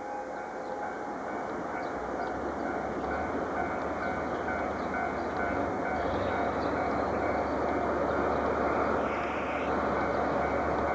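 Diesel train running past, a steady rumble of engine and wheels that builds over the first couple of seconds, with a low drone coming in about two seconds in and holding.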